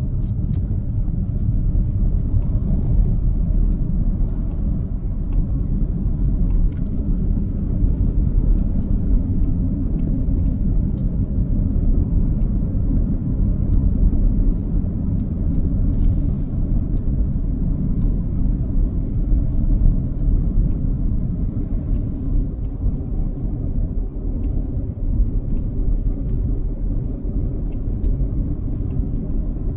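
Steady low rumble of a car being driven: road and engine noise with no change in pace.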